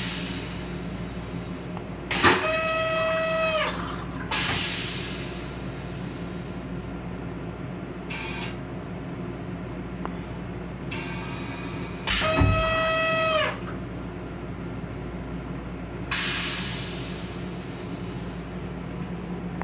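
Restroom equipment on a Metro-North M7 railcar cycling twice: a pitched motor-like tone lasts about a second and a half and drops in pitch as it stops, followed by a burst of hiss that fades. A steady low hum runs underneath.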